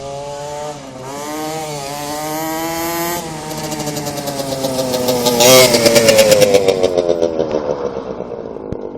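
Homemade go-kart's Honda NSR50R 50cc two-stroke engine revving up as it approaches and passes close by. It is loudest about six seconds in, then its note falls and fades as it moves away.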